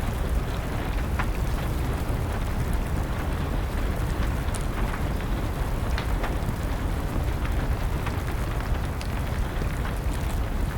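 Steady rain with a deep rumble underneath, and scattered sharp pops of a wood fire crackling every second or two.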